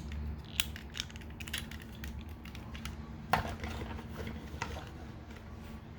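Light plastic clicks and taps from handling a Transformers action figure as an accessory is pulled off and a hand part swapped, with the sharpest click a little past halfway.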